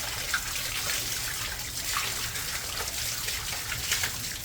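Steady splashing of falling water, a continuous hiss with many small drips and patters.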